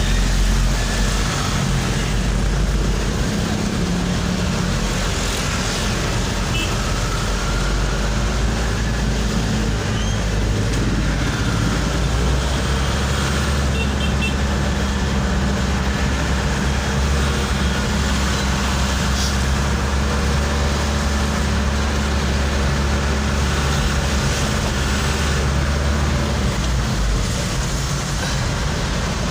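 Road traffic heard from a moving vehicle: a steady low engine hum under constant road noise, the engine note shifting a few times and dropping away near the end.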